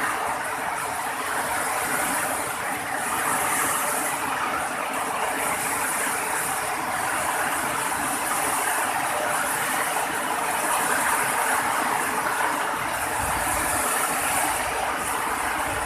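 Steady rain falling, a loud even hiss of water with no break.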